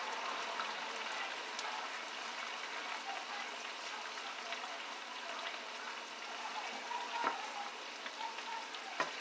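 Catfish frying in a pan, a steady sizzle, with a few light clicks, likely utensil taps, about seven seconds in and near the end.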